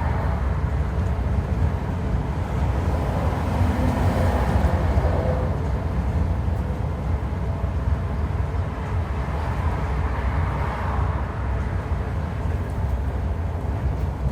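Scania N230UD double-decker bus with a 9.3-litre DC9 engine, on the move: steady engine and road rumble with a faint howling tone that swells a few seconds in. The uploader suspects the howl comes from a dodgy bearing or worn-out tyres.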